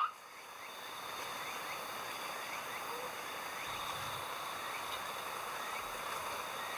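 Insect chorus: dense steady chirring with several thin high tones and faint short chirps, fading in after a brief dip at the start.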